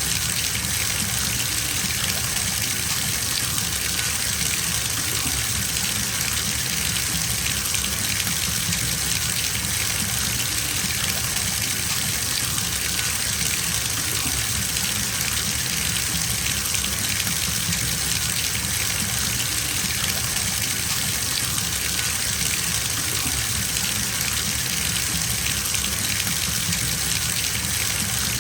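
Bathtub filling from the tap: a steady gush of running water pouring into the tub, unchanging throughout.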